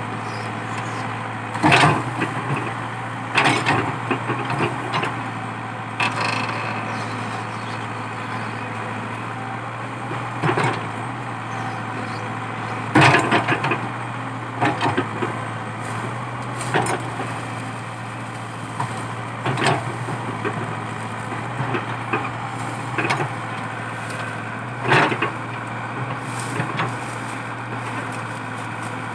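Komatsu PC80 excavator's diesel engine running steadily under load while it digs out a eucalyptus stump. Sharp cracks and knocks come every few seconds, about ten in all, as wood and roots break.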